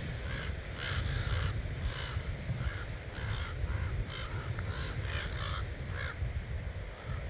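Several crows cawing over and over in short, harsh calls, the alarm calls of crows mobbing a coyote. Wind rumbles on the microphone underneath.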